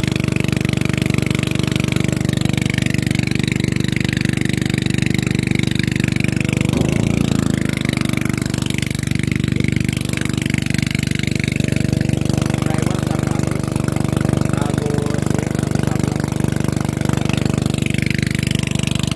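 Tow boat's engine running steadily at a constant pitch as it pulls a string of fishing rafts.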